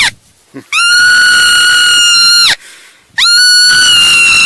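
Long, high-pitched screams held at a steady pitch, each lasting almost two seconds, one starting under a second in and another about three seconds in, with a short gap between them.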